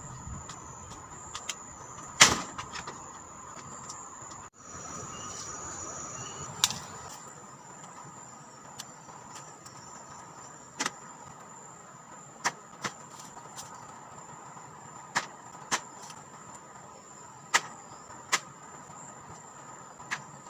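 Sharp, single knocks at irregular intervals, some in quick pairs, like a hammer tapping small nails into bamboo. The loudest comes about two seconds in.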